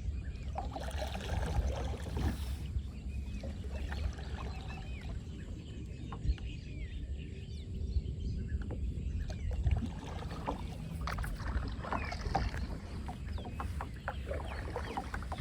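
Boat under way on a river: a steady low rumble, with short high chirps scattered through it.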